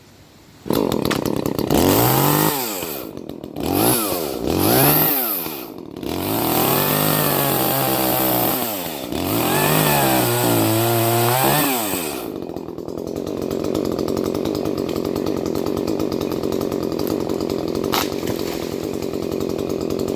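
Two-stroke chainsaw starting up about a second in and revving up and down several times, then dropping back to a steady idle for the rest. There is one sharp click near the end.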